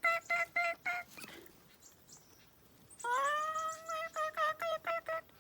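Baby bird calling: a rapid series of short, pitched notes, about five a second, that stops after about a second. About three seconds in comes a longer rising call, which runs straight into another quick series of notes.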